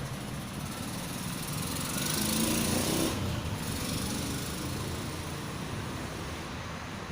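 A small engine running, swelling to a peak about three seconds in and then slowly fading.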